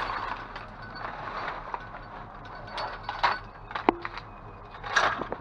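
Objects being rummaged through and handled in a dumpster: scattered clicks, knocks and rustling, with a sharp knock about four seconds in and a louder rustle near the end.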